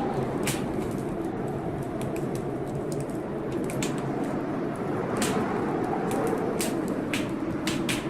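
Wood fire crackling with irregular sharp pops over steady blizzard wind, which swells and eases with a faint moaning tone that rises and falls.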